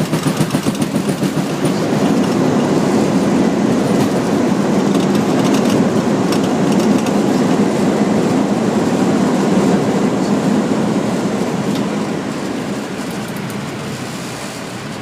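Airbus A319 landing rollout heard in the cockpit: rumble of the wheels on the runway, with a rapid rhythmic thumping in the first couple of seconds. The engines' reverse thrust then builds to a loud, steady noise and dies away after about ten seconds as the aircraft slows.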